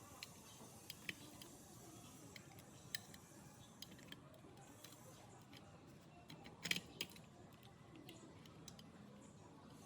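Near silence with faint, scattered sharp clicks and light taps, the loudest a short cluster of clicks about two-thirds of the way through.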